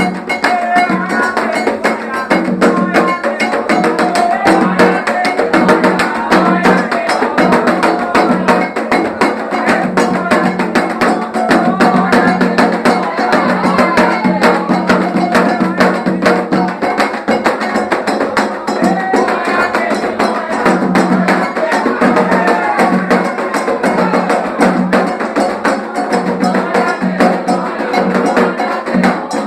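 Percussion-led music with a fast, dense beat of drum and wood-block-like strokes, with voices singing over it.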